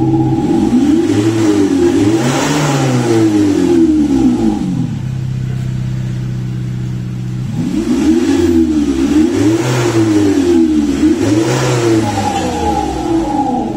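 Virtual exhaust sound generator on a Ford Ranger 2.2 playing a synthetic engine note through its speaker. It gives a series of quick revs, holds steady at idle for a couple of seconds about five seconds in, then revs again several times before settling near the end.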